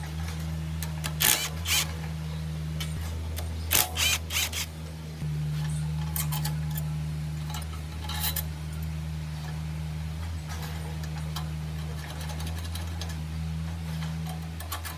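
A motor running steadily with a low hum, with sharp clicks and knocks over it, in clusters about a second in and about four seconds in.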